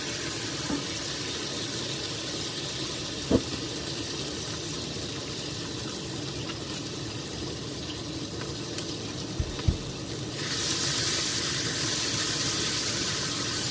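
Ground yellow spice paste frying in hot oil, a steady sizzle that grows louder about ten seconds in. A few short knocks, about three seconds in and near the end, from a utensil against the pan.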